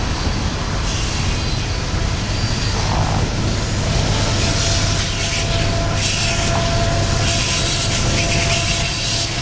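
Freight cars rolling past on curved track: a steady rumble of steel wheels on rail, with a thin wheel squeal setting in about halfway through.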